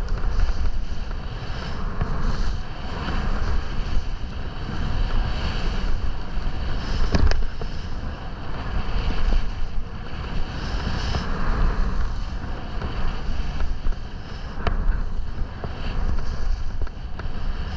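Wind rushing over the microphone of a skier's camera with skis hissing and scraping through snow over moguls, rising and falling in waves; a sharp click about seven seconds in.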